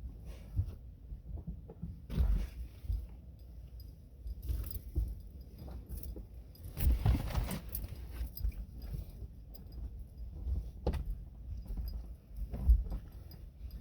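Handling noise from car window curtains and their clips: irregular rustling, clicking and knocking, with a longer rustle about halfway through and a sharp knock near the end.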